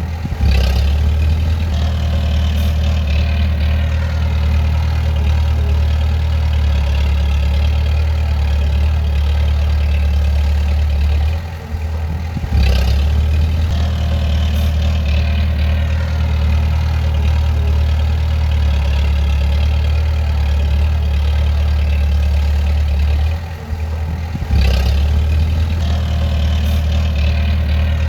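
Bulldozer's heavy diesel engine running steadily with a deep drone, dipping briefly in level twice, about twelve seconds apart.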